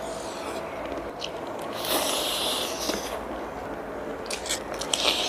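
Crunching and chewing on crispy battered fried chicken, with scattered crisp clicks and a louder stretch of crunching about two seconds in.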